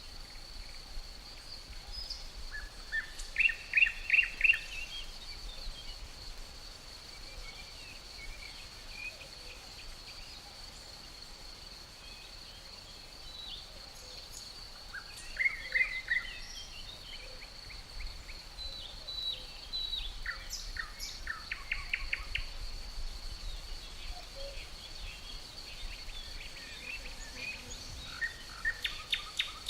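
Birds chirping in short, quick runs of notes four times, over a steady high drone of insects.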